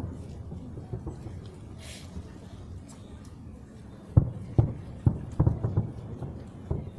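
Distant fireworks going off: a cluster of dull, low thuds, about six in three seconds, starting about four seconds in.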